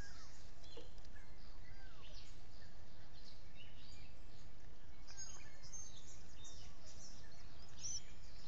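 Scattered short bird chirps and calls, several gliding downward in pitch, over a steady low background noise.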